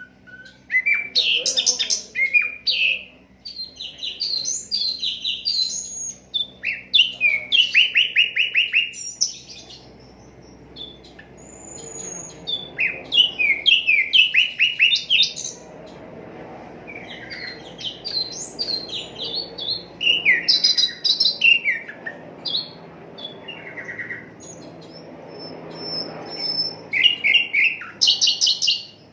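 A sikatan londo flycatcher singing: bursts of quick, high chirps and rapid trills, broken by short pauses.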